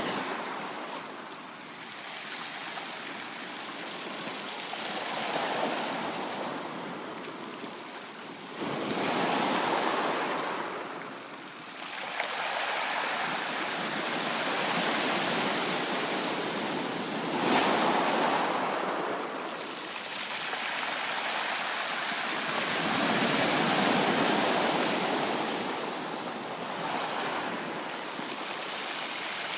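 Sea waves breaking on a beach: a steady hiss of surf that swells and eases every few seconds, with the loudest wash a little past the middle.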